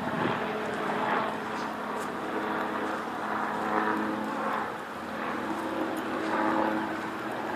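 Car running with a steady engine and road hum, heard from inside the cabin.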